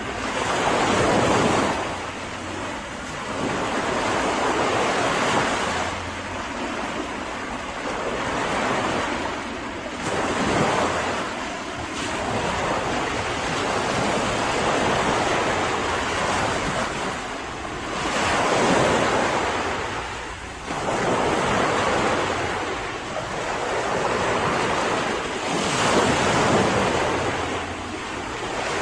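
Mediterranean sea waves breaking and washing up a beach. The surf rises and falls in surges every few seconds.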